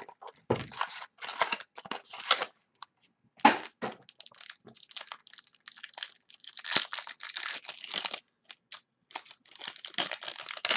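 Plastic wrapping of a box and packs of football trading cards being torn open and crinkled by hand, in irregular crackly bursts.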